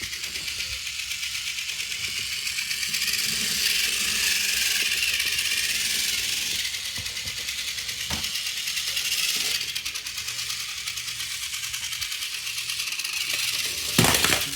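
Small battery-powered toy train engines running along a toy track: a steady high whirring motor sound with a fast rattle. A sharp knock comes near the end.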